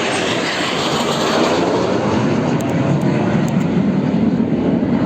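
Military jet aircraft flying low past the crowd: a loud, sustained jet roar that deepens toward the end as it passes.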